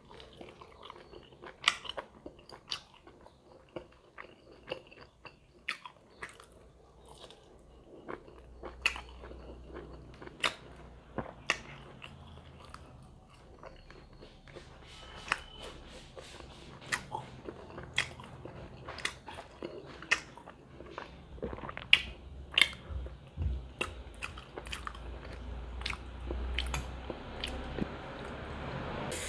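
Chewing and biting into large homemade pork momos, with many sharp wet mouth clicks at irregular intervals.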